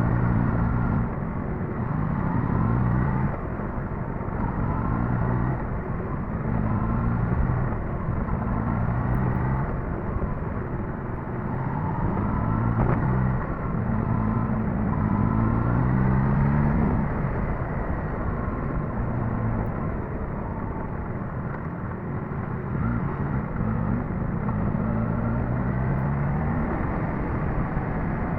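Suzuki GSX-S1000GT's inline-four engine running as the motorcycle is ridden, its note rising and falling with the throttle several times.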